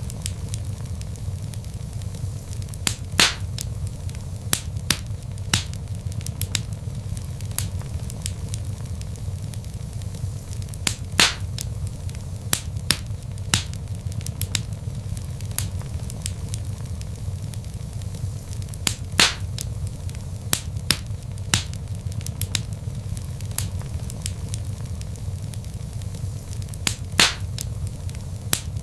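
Log fire crackling in a fireplace: scattered sharp snaps and pops over a steady low rumble, with a louder pop about every eight seconds.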